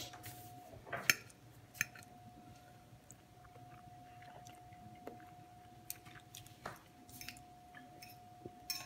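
A person chewing a mouthful of eggs and mushrooms, with a few sharp clinks of a fork against a ceramic plate, the loudest about a second in.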